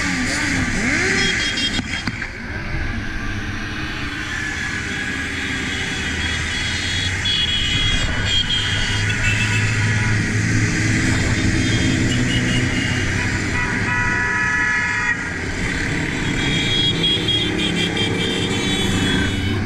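Motorcycle engines running in a large riding convoy, with horns honking several times.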